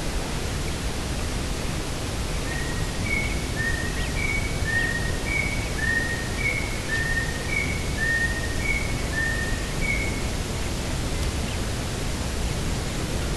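Steady wind rumble and hiss across an open coastal field. About two seconds in, a bird repeats short chirps that alternate between a higher and a lower note, roughly one pair a second, for about eight seconds.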